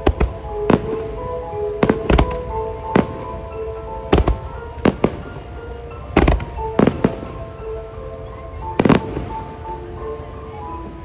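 Aerial fireworks shells bursting in a music-synchronised starmine: about a dozen sharp bangs at uneven intervals, some in quick pairs. They sound over piano music played for the show.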